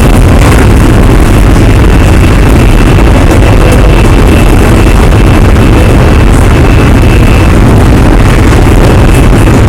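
Interior running sound of a JR Hokkaido 733 series electric train motor car at speed: a loud, steady rumble of wheels on track. A thin, steady high whine from the Hitachi IGBT-VVVF traction equipment runs above it and fades about three quarters of the way through.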